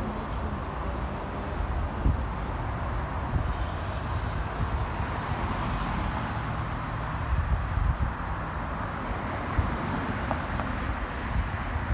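Steady low rumble of moving vehicle noise, with a few light knocks.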